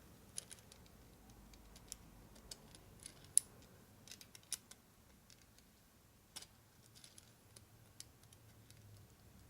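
Faint, irregular light metal clicks and taps of a 3/8-24 threading die being fitted by hand onto a chrome-plated thread. The die will not start because of the thick chrome. The sharpest click comes about three and a half seconds in.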